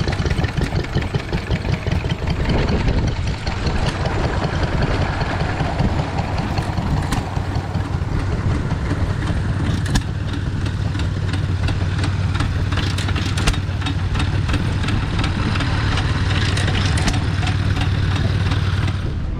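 Tractor diesel engine running steadily, its low hum growing more even about a third of the way in, with a couple of sharp clicks along the way.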